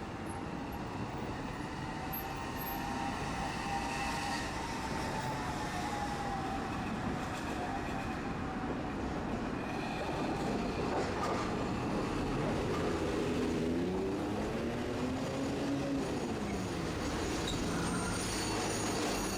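Tosaden streetcar running on its rails, with a steady rumble and whining tones that glide slowly up and down in pitch, lower in the second half.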